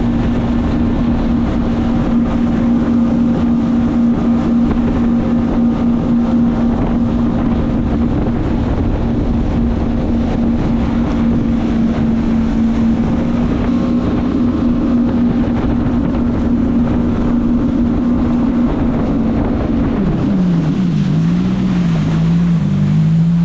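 Jet ski engine running at steady high revs, with wind buffeting the microphone. About twenty seconds in the engine note drops sharply as the throttle comes off and settles into a lower, wavering run as the craft slows to a stop.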